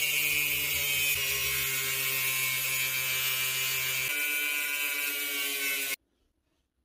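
Power tool running steadily as it cuts into a broken steel drill chuck, a constant motor hum under a harsh grinding hiss; it stops abruptly about six seconds in.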